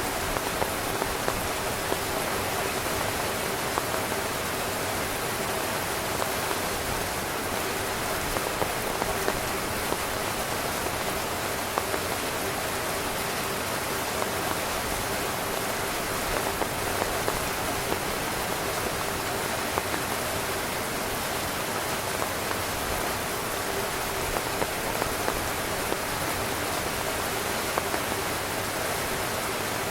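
Steady rain falling on a tent, with single louder drops hitting here and there over the constant wash.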